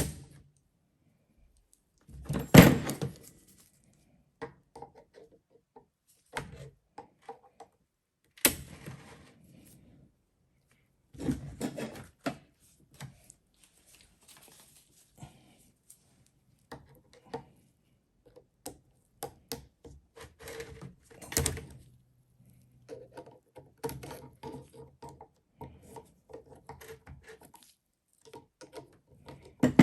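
Irregular knocks, taps and clatter of hand tools and metal starter parts being handled during the teardown of a Toyota Denso starter, with short quiet gaps between them and a louder knock about two and a half seconds in.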